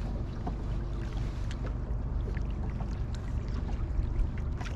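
Steady low rumble of a fishing boat on the river, with scattered light clicks and taps.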